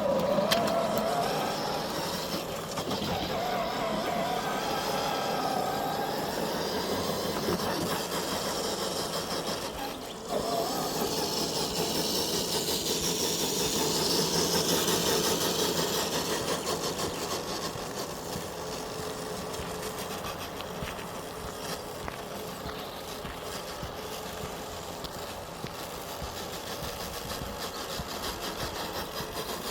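The electric motor and gearbox of an FMS FJ40 radio-controlled crawler whine as it drives, the pitch rising and falling with the throttle. It stops briefly about a third of the way in, then starts again abruptly.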